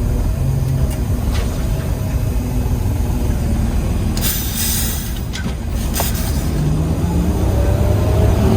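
Garbage truck engine running, heard from inside the cab, with a burst of hissing air about four seconds in lasting about a second and a shorter one soon after. A rising whine comes in near the end.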